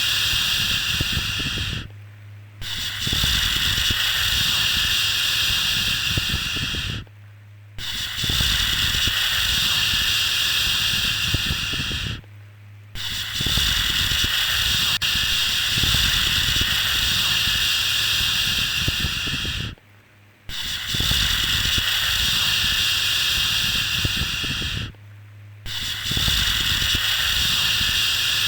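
Long, drawn-out 'shhh' shushing sounds for soothing a baby, each lasting about five to seven seconds, repeated six times with a brief pause before each.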